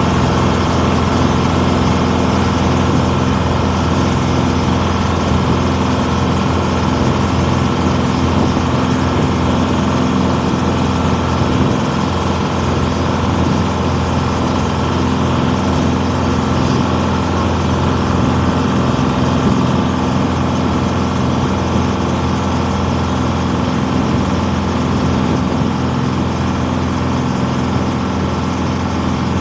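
Motor vehicle engine running at a steady speed: an unbroken low drone that neither rises nor falls.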